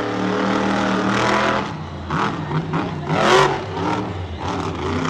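Monster truck engine running hard at high revs. About two seconds in the note drops, then it revs in uneven bursts, with the loudest rise and fall about three seconds in.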